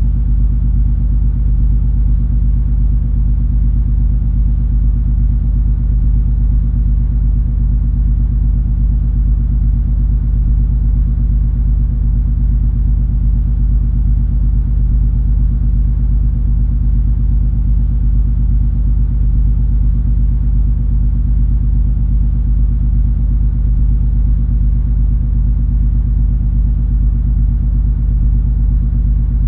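Steady low rumble of the cruise ferry MS Color Magic's engines while it is underway, with a constant deep hum on top. The sound holds even, with no change.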